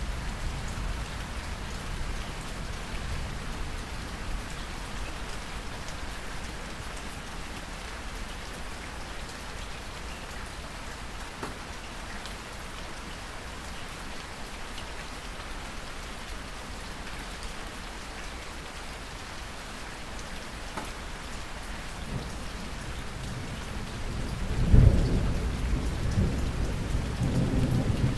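Steady rain falling, with thunder: a low rumble fades out over the first few seconds, then another builds about three-quarters of the way in to a loud clap and keeps rumbling to the end.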